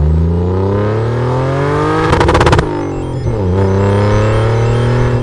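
A vehicle engine revving up through the gears: the pitch climbs for about two seconds, a brief rapid crackle of pops comes at the shift, then the pitch drops and climbs again before holding steady.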